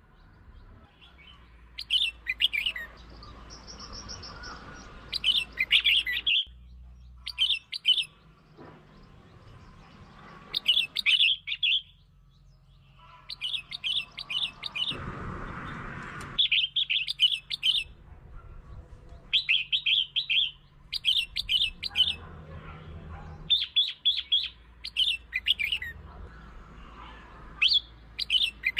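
Red-whiskered bulbul song: short, bright, chirpy phrases repeated every one to three seconds, with brief gaps between them. It is a lure call used to provoke and excite other bulbuls.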